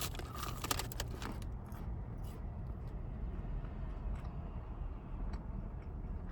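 A few quick clicks and rustles in the first second or so, like food and its wrapper being handled. They sit over a steady low background rumble.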